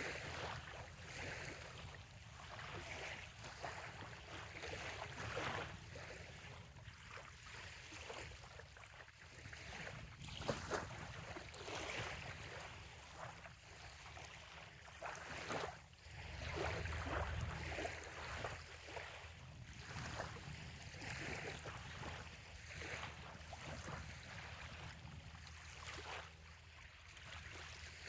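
Small bay waves lapping gently at a sandy shoreline, a steady wash broken by many small, irregular splashes. A low rumble runs underneath and swells briefly about two-thirds of the way through.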